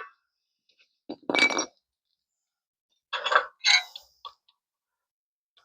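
Metal tools and parts being handled and set down, clinking and clanking: a short clatter about a second in, then a few more clinks between about three and four and a half seconds in.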